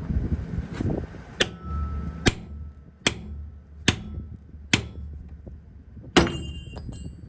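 Hammer striking steel: about six sharp, ringing blows, roughly one a second, the last the loudest, over a low steady rumble.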